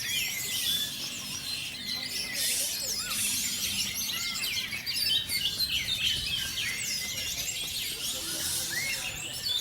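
Several caged orange-headed thrushes (anis merah) singing at once: a dense, overlapping chatter of quick high whistles and chirps with no pause.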